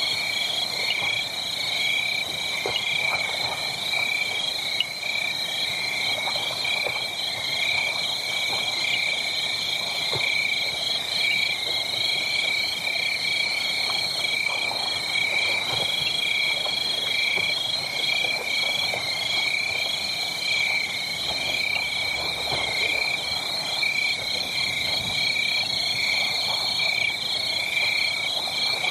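A steady chorus of frogs calling: dense, rapidly pulsing high trills in two pitch bands that go on without a break. Faint scattered crackles, typical of a wood fire, sit beneath it.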